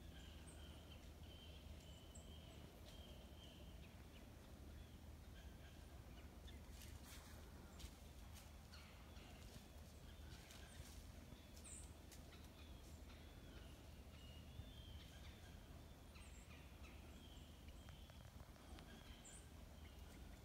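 Quiet woodland ambience with faint bird calls repeating throughout and a few light clicks or rustles about seven seconds in.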